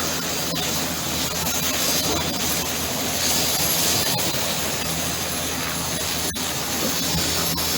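Helicopter running steadily, with its engine and rotor noise holding at one level and a few very brief dropouts.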